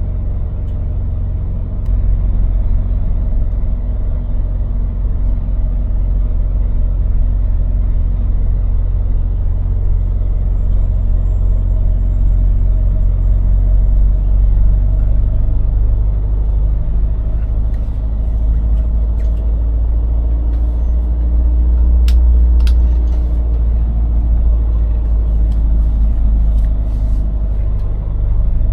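Scania lorry's diesel engine running with a steady low rumble, getting louder about two seconds in. Two sharp clicks come about three-quarters of the way through.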